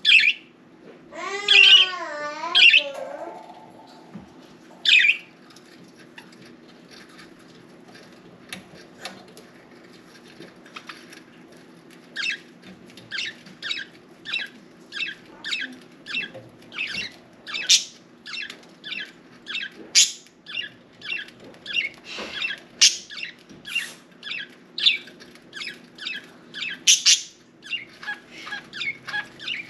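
Pet budgerigars calling: a sharp chirp, then a wavering warbled call about a second in, followed after a quieter stretch by a long run of short high chirps, about two a second. A steady low hum sits underneath.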